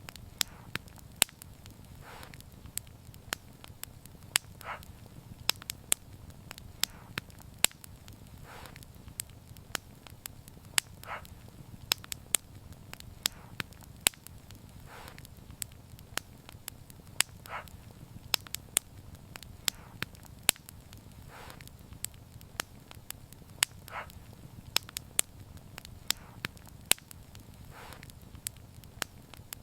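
Wood fire burning, with frequent sharp crackles and pops at irregular intervals over a low steady rumble, and a softer hiss recurring about every two seconds.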